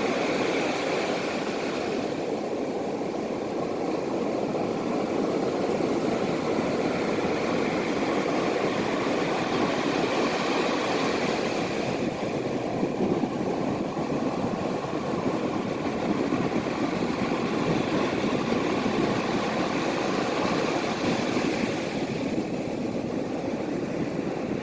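Ocean surf: a steady rushing wash of waves that swells and eases slowly over several seconds.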